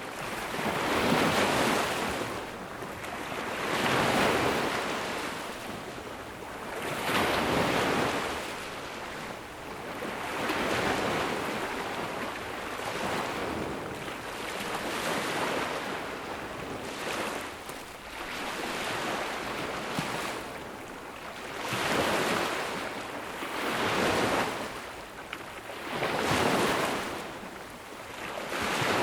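Small ocean waves breaking and washing up on a sandy beach, each surge of surf swelling and fading every two to three seconds.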